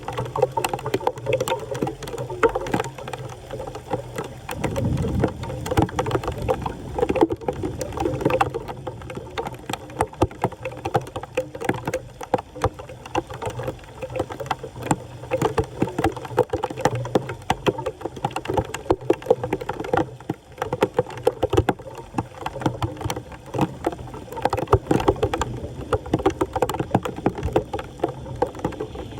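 Floodwater splashing and sloshing, with many rapid, irregular splashes and clicks throughout and a short low rumble about five seconds in.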